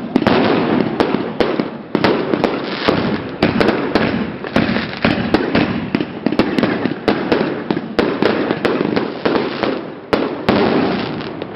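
Royal Fireworks RFC 1387 firework going off: a dense, continuous crackling with many sharp pops, thinning briefly twice before picking up again.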